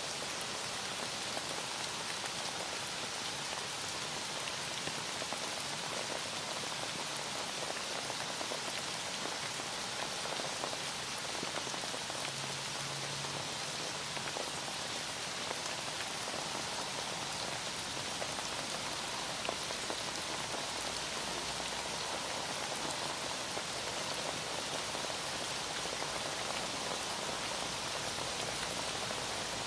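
Heavy rain falling steadily, an even hiss of drops on a surface.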